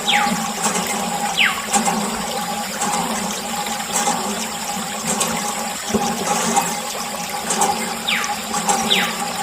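Steady running and splashing of water from a miniature DIY water pump, with a few brief high sounds that fall in pitch near the start and again near the end.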